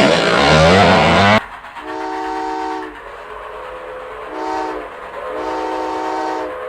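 A loud motor revving with a wavering pitch, which cuts off abruptly about a second and a half in. It is followed by a multi-tone horn chord that sounds three times: a long blast, a short one, then another long one.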